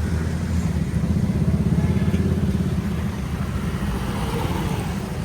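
A motor vehicle's engine running with a steady, rapidly pulsing low throb, over street noise.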